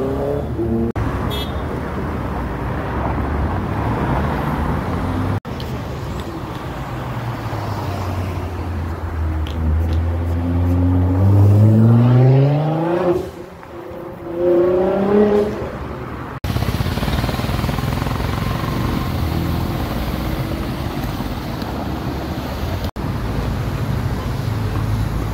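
A motorcycle accelerating away at the very start, then steady road-traffic noise. Midway, a Nissan GT-R's twin-turbo V6 revs up hard twice, with a brief drop in between. Steady traffic noise follows.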